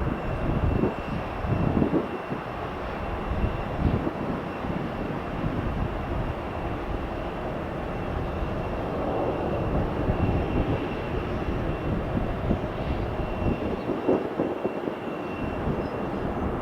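Steady roar of a departing Embraer E175 regional jet's turbofan engines, with a faint steady high whine over it.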